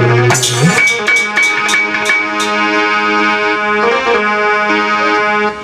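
Instrumental interlude of Indian devotional music: a harmonium plays a sustained melody over a held drone. Sharp percussion strikes come in the first two seconds or so.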